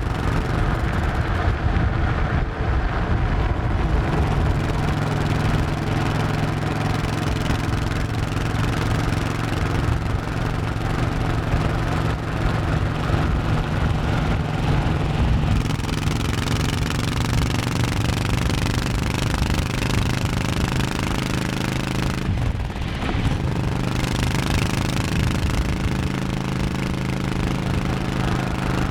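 Honda 1100cc V-twin motorcycle engine running under way. Its pitch climbs slowly as it pulls, it briefly drops off about three-quarters of the way through, then it runs steady again.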